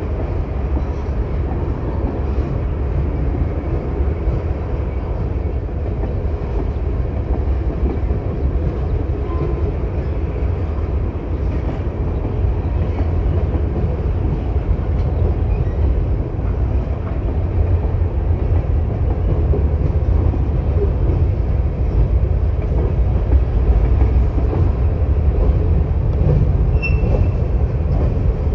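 A train's railcars rolling past on the rails, a steady rumble that grows a little louder toward the end.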